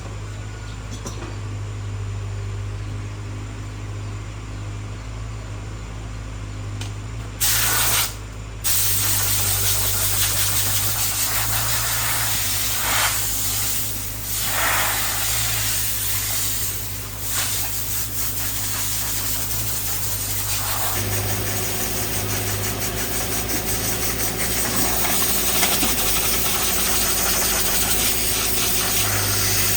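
Loud air hissing in long blasts, with a few short breaks, over a steady low machine hum; from about twenty seconds in a steady tone joins the hiss.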